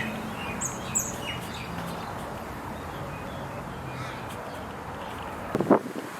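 Birds chirping with short high calls over a faint low steady hum. Near the end come two or three loud, short, harsh bursts, the loudest sound here.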